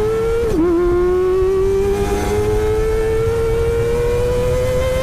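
Kawasaki ZX-25R 250cc inline-four with an Akrapovic exhaust, running at high revs under acceleration: a high-pitched scream that drops sharply at an upshift about half a second in, then climbs steadily in the next gear.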